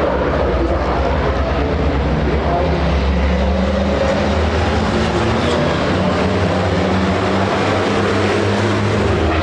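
Racing trucks' turbo-diesel engines running at speed, a steady loud drone with small shifts in pitch.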